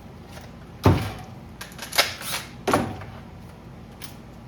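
A few sharp knocks and clatters of tools being handled and set down on a workbench, three in all, the loudest about a second in and followed by a short rattle near the middle.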